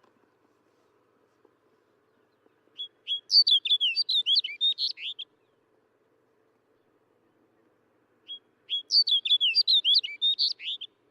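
Snow bunting singing: two short songs of quick, varied warbled notes, one about three seconds in and another near the end, each lasting a little over two seconds.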